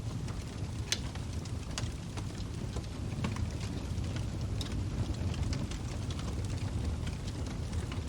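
Log fire burning with a steady low rumble and irregular sharp crackles and pops, the loudest about a second in.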